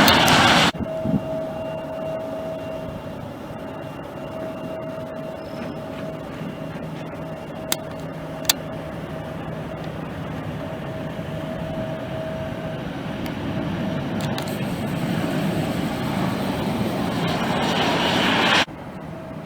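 Jet airliner engine noise with a thin steady whine, growing louder over the last few seconds before it cuts off abruptly. Two sharp clicks come about halfway through.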